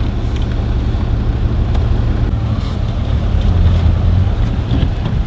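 Land Rover Discovery 2's Td5 five-cylinder turbodiesel engine running as the vehicle drives, a steady low drone that swells briefly about four seconds in.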